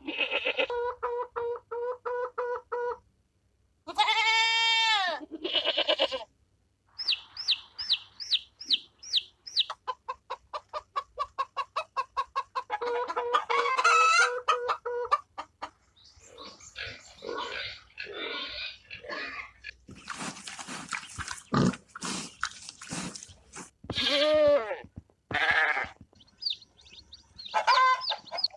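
A succession of different farm animal calls, one after another, chickens clucking among them. The calls come in short separate runs, some as rapid repeated notes and some as single long rising-and-falling calls.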